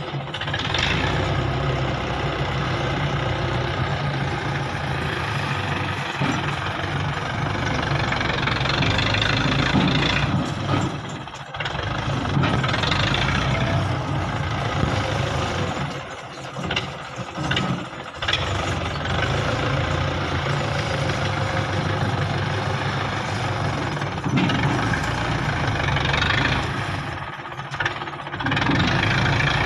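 Belarus 510 tractor's four-cylinder diesel engine running steadily, dropping away briefly a few times.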